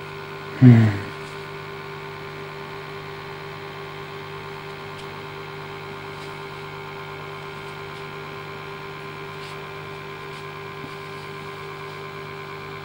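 Steady electrical hum with a few fixed tones. About a second in there is one short, loud vocal sound that falls in pitch.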